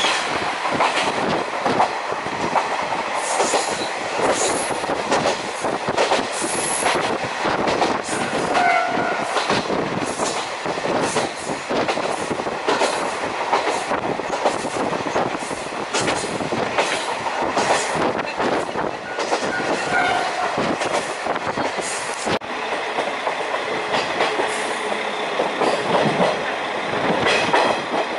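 Diesel railcar running, heard from an open side window: wheels clicking and clattering over the rail joints, mixed with the diesel engine and rushing air. The sound is steady and loud, and a brief higher tone cuts through twice, about 9 and 20 seconds in.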